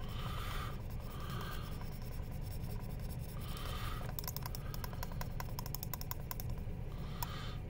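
Sharpie marker scribbling on the glass of a car's instrument cluster: short scratchy strokes, then a quick run of small clicks and taps from about four to seven seconds in.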